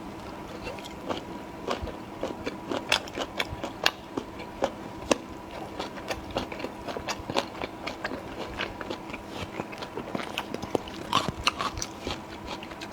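Close-miked chewing and biting of a fatty grilled meat piece: irregular wet clicks and smacks, several a second, over a faint steady hum.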